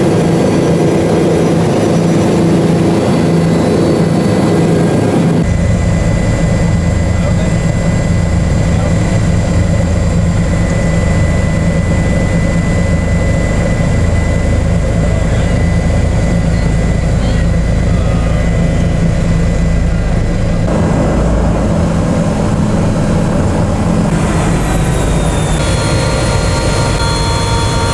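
Tour helicopter's turbine engine and rotor running steadily and loudly, heard from inside the cabin, with a shift in the deep rotor sound about five seconds in and a change in tone with added whining tones in the last few seconds.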